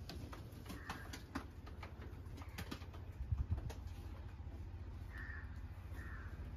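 Faint bird calls, a few short calls mostly near the end, over scattered light clicks, with a couple of low thumps about three and a half seconds in.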